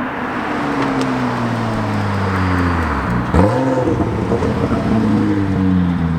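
Porsche 996 911 Turbo's twin-turbo flat-six running through a straight-piped titanium X-pipe exhaust, its note falling steadily as the car slows. About three seconds in there is a quick throttle blip, louder for a moment, before the pitch winds down again.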